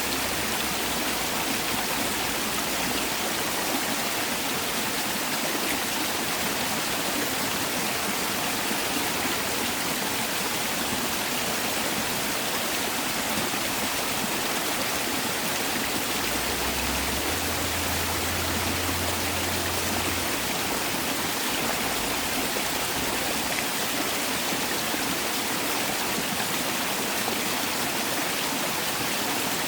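Mountain valley stream flowing over rocks, a steady rushing of water.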